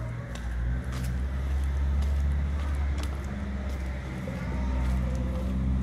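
A motor vehicle's engine running close by, a loud low rumble that shifts slightly in pitch, with faint footsteps on cobblestones.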